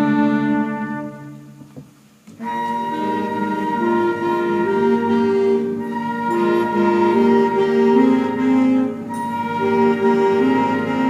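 School wind band playing: a held chord fades away to a brief pause about two seconds in, then the band comes back in with a moving melody over sustained chords.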